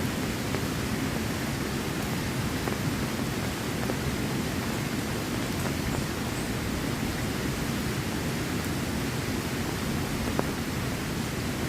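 Steady, even rush of water noise, with a few faint ticks.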